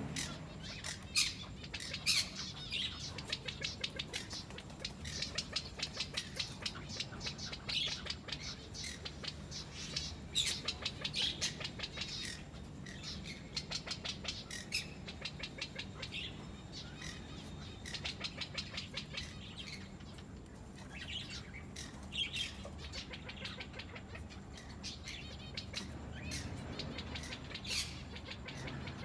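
Several birds chirping and squawking, with many short, high calls and quick chattering runs overlapping throughout.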